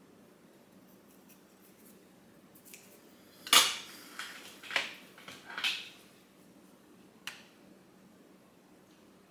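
Small hard objects clattering as they are handled: a cluster of light knocks and clicks starting about three and a half seconds in, the first the loudest, and one more click near the end.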